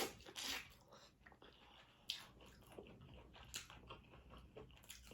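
Faint close-up eating sounds: chewing and wet mouth noises while eating seafood, with a few sharper clicks and crunches.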